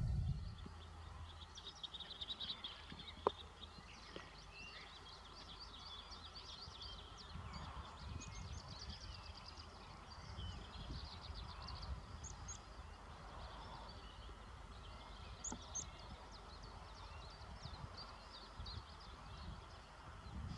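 Birds chirping and twittering, with many short high calls scattered throughout, over a low steady rumble; a single sharp click about three seconds in.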